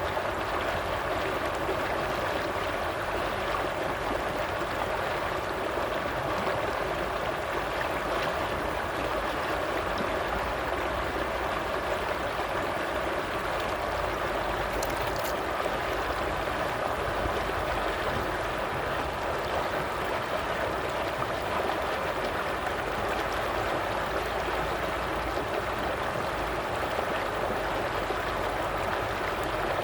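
Water of a stream flowing and gurgling steadily.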